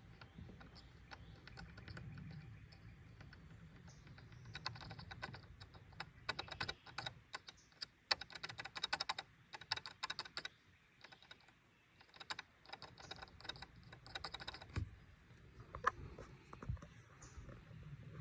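Rapid plastic rattling from a loose plastic clip in a 2022 Toyota Tundra's A-pillar trim, coming in bursts through the middle, over a low rumble, with a few sharper knocks near the end.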